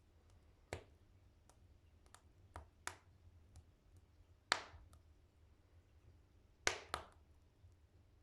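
Wood fire burning in a wood stove with its door open, crackling with sharp, irregular pops; the loudest pop comes about four and a half seconds in, and two come close together near the end.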